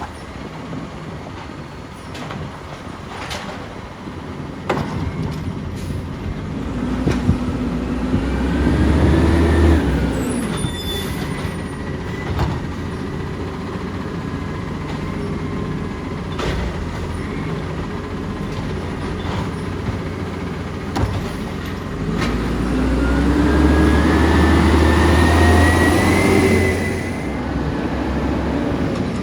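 Side-loader garbage truck working curbside: its diesel engine runs steadily and twice revs up with a rising whine, about seven seconds in and again about twenty-two seconds in, as it powers the hydraulic arm to lift and dump a cart, with scattered knocks and clunks.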